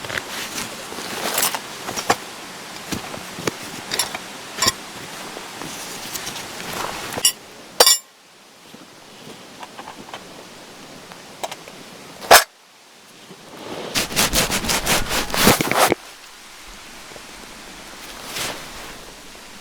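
Camping gear being handled and rummaged through: rustling and clicking, two sharp snaps, and a quick run of rasping strokes like a zipper, about two-thirds of the way in.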